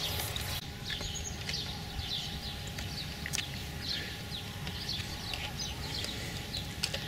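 Small birds chirping in short, repeated falling notes over a steady low rumble, with one sharp click about three and a half seconds in.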